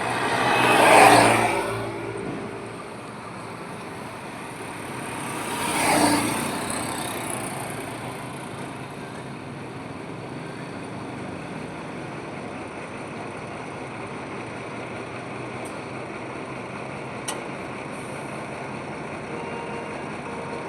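Highway traffic: two vehicles pass close by, one about a second in and another about six seconds in, each rising and fading away, over a steady wash of road noise. A single sharp click comes late on.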